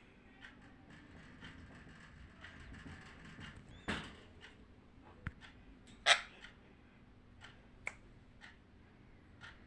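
Pet parrot making a few short, sharp sounds over quiet room tone, the two loudest about four and six seconds in, with fainter clicks between.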